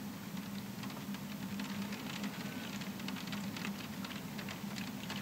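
Rain pattering on window glass: many small, irregular drop ticks over a steady low hum.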